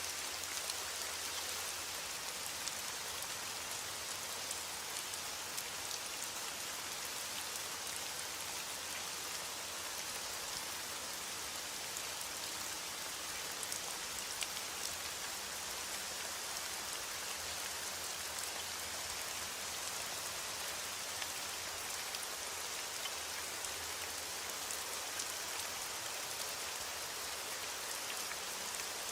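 Steady rain falling and pattering on a surface, an even hiss with scattered drops ticking.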